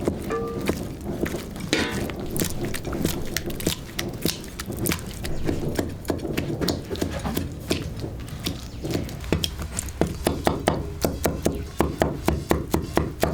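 Knife chopping on a cutting board: irregular strokes at first, settling into a steady run of about four chops a second in the last few seconds.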